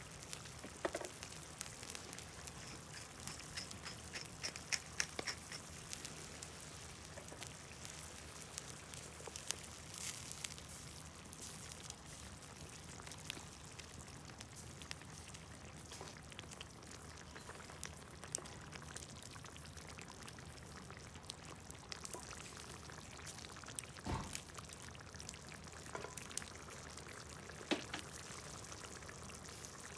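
Stew simmering in a pan over a wood fire: a steady bubbling hiss with scattered small pops and crackles.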